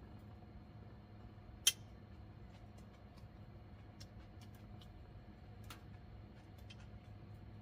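Faint, sparse crackles and pops of burning firewood: one sharp pop about a second and a half in, another near six seconds, and a few small ticks between, over a low steady hum.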